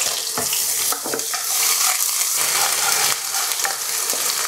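Garlic and ginger sizzling as they fry in a hot wok. They are stirred, with a few knocks of the utensil against the pan in the first second or so.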